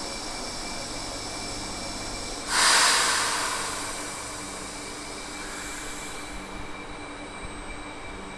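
A train at a station, its equipment humming steadily with several constant tones. About two and a half seconds in comes a sudden loud hiss that fades out over a second or so.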